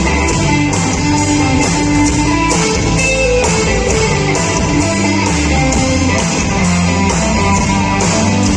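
Live rock band playing, with guitar over bass and a steady beat.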